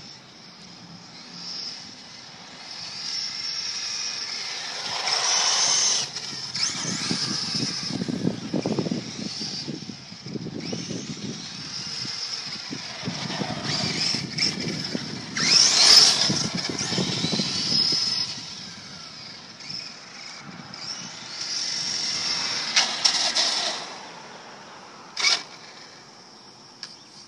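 Kyosho DMT VE brushless electric RC monster truck driving on dry pavement. A high motor and drivetrain whine rises and falls with the throttle, mixed with rushing tyre noise, and a few sharp clicks come near the end.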